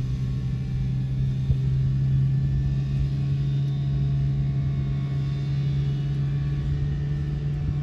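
Steady low engine drone over a rumble, from a TEXRail Stadler FLIRT diesel multiple-unit train.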